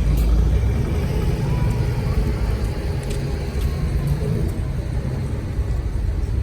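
Low, steady engine sound of a vintage car driving past.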